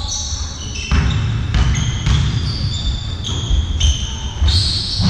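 Indoor court game: many shoes squeaking on a sports-hall floor, high and short, over the thud and rumble of a ball bouncing and players moving.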